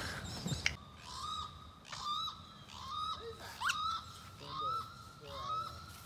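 A bird calling over and over, one short call about once a second.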